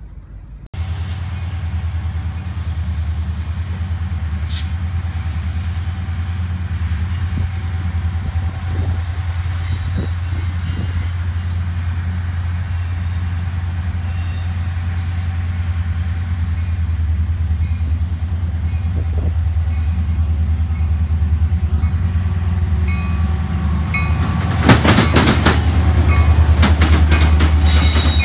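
Union Pacific diesel freight locomotives rumbling steadily as a double-stack container train approaches, growing slowly louder. From about 25 s in, as the lead units draw alongside, their wheels clatter loudly over the rails.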